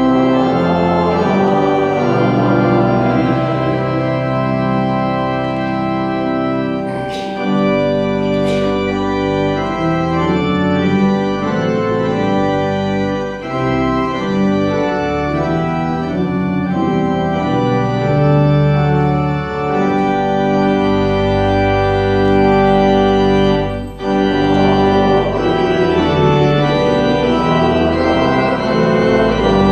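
Church organ playing sustained chords that change every second or two, starting suddenly and dipping briefly once about 24 seconds in.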